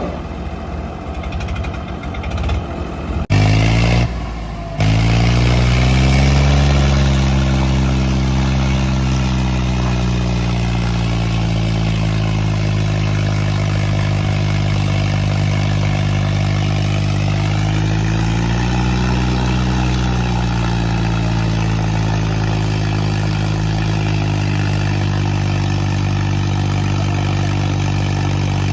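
Diesel tractor engines working hard under heavy load in a tug-of-war pull, giving a steady deep drone. The sound cuts abruptly about three seconds in. After the cut, the engine pitch rises about five seconds in, holds, and swells again briefly later on.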